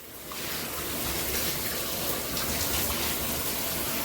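Water pouring from an overhead rain shower head, an even hiss of falling spray that builds over the first second as the flow comes on, then holds steady.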